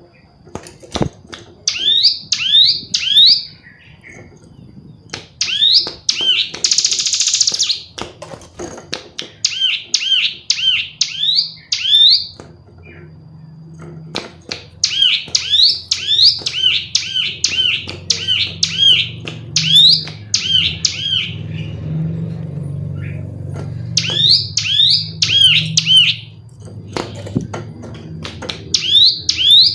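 Female ciblek gunung (hill prinia) calling: runs of quick, repeated falling chirps, about four a second, broken by short pauses, with one harsh buzzy note about seven seconds in.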